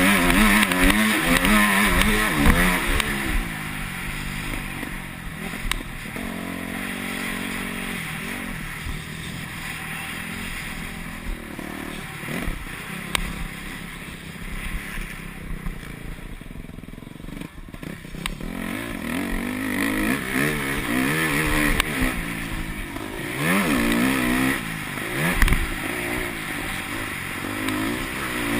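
Yamaha YZ250F four-stroke single-cylinder motocross engine being ridden hard, its pitch rising and falling with the throttle. It is loud at first, eases off through the middle, then revs up again over the last third, with a few knocks from the bike over the track.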